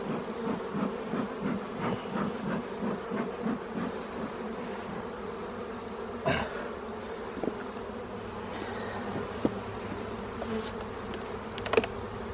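Honeybees buzzing in an opened hive: a steady hum. Over the first few seconds comes a run of even puffs, about two a second, from the bee smoker's bellows. A couple of sharp knocks of hive woodwork follow later.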